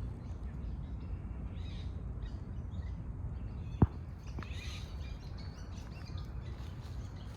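Outdoor ambience: a steady low rumble with faint bird chirps scattered through it, and a single sharp knock a little past halfway.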